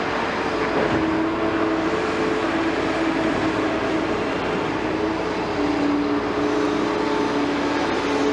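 Liebherr 946 excavator working: its diesel engine runs steadily under a hydraulic whine whose pitch shifts up and down a few times as the load changes.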